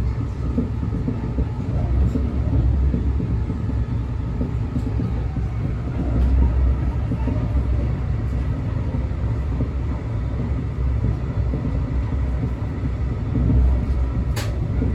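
Brightline passenger train running, a steady low rumble with a single sharp click near the end.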